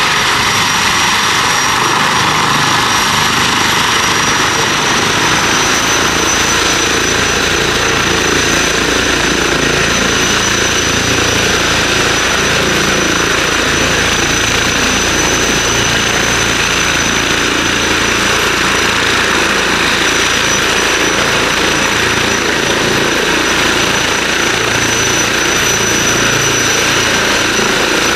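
Helicopter running close by: a steady high turbine whine over the rush and beat of the rotor. The deep rotor rumble grows stronger a few seconds in.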